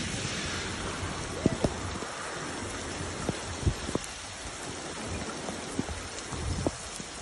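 Steady rain hiss, with scattered sharp taps of drops striking close to the microphone.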